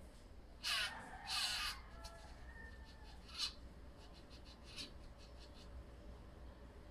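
Harsh, raspy calls from a small animal: two calls about a second in, a shorter one near the middle, then a few faint ticks.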